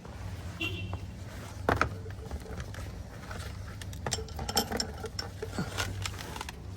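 Vehicle lift's electric pump motor humming steadily as it raises the car, with scattered clicks and knocks.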